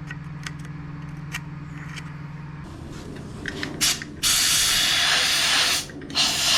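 A short spurt, then two long loud hissing blasts from a pressurized spray nozzle, cleaning the water pump gasket surface and bolt holes on an outboard lower unit. Before the blasts there are a low steady hum and a few light clicks.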